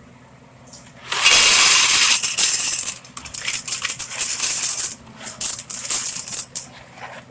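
Dry pasta poured from a box into a pot, the hard pieces rattling against it. One long pour about a second in, then several shorter shakes.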